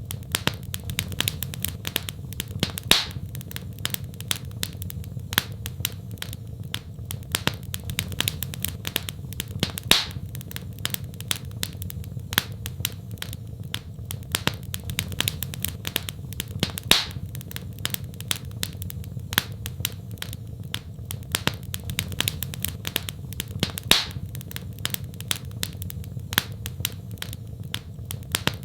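Wood fire crackling in a fireplace: many small crackles, a louder pop about every seven seconds, over a steady low rumble.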